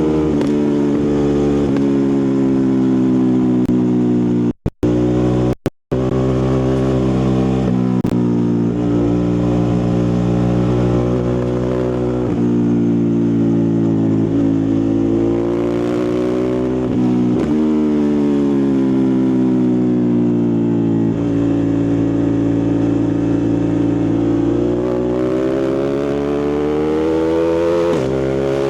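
Ducati Multistrada 1260 Pikes Peak's V-twin engine and exhaust under way, its note rising and falling slowly with throttle and engine speed. The sound cuts out briefly twice about five seconds in.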